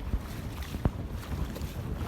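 Wading through a shallow stream: water sloshing around the legs with a low, uneven rumble of wind and handling on the microphone, and one sharp click a little under a second in.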